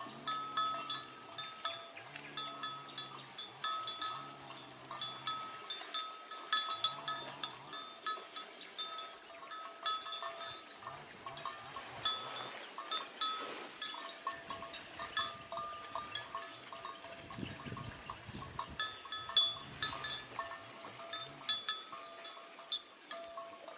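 Bells on grazing livestock clanking irregularly over a steady high tone, with short low animal calls during the first several seconds.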